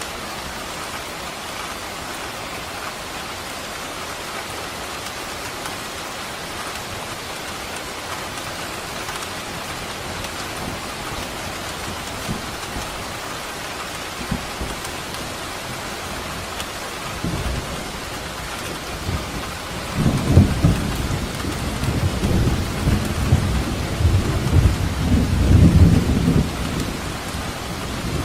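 Steady heavy rain falling, with a deep roll of thunder rumbling through the last third.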